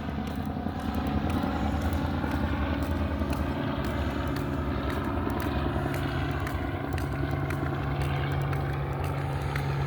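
Steady low engine drone with a constant hum, holding level throughout.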